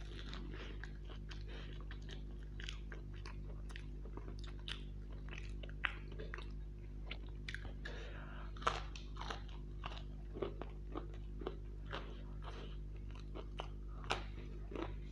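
Close-miked chewing and crunching of crisp deep-fried pastry, a steady stream of short crackles, with louder bites about nine seconds in and again near the end.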